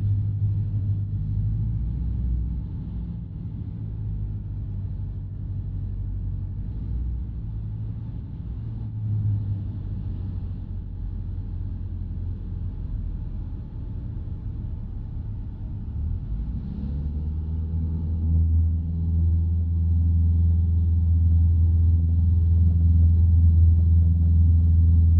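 Single-engine light aircraft's piston engine and propeller running, heard from the cockpit. It runs at low power at first, then about two-thirds of the way through the power comes up to a louder, steadier, higher note and holds there.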